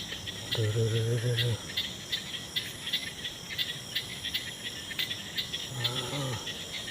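Night chorus of crickets and other insects: steady chirping pulses repeating several times a second, over a thin high continuous trill.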